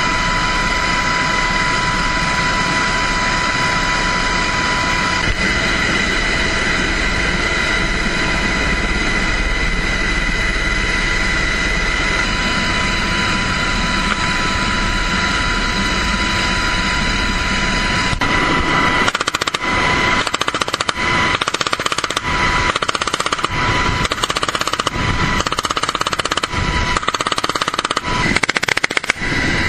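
A steady high whine over a dense, continuous rattle. About two-thirds of the way in it gives way to rapid automatic gunfire in choppy, stuttering bursts.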